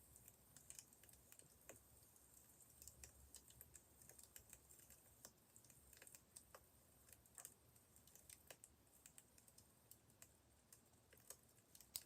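Faint crackling of a wood fire: irregular small snaps and ticks.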